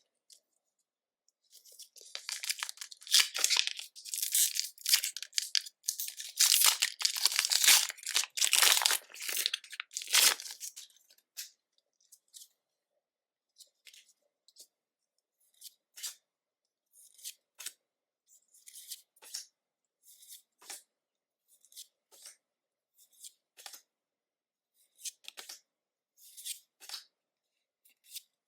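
A Pokémon booster pack's foil wrapper being torn and crinkled open for about nine seconds, loud and crackly. After that come short, soft rustles about once a second as the cards are handled one by one.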